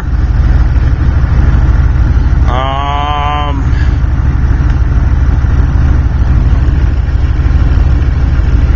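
Diesel pickup engine idling steadily, with one short, slightly rising pitched tone about two and a half seconds in.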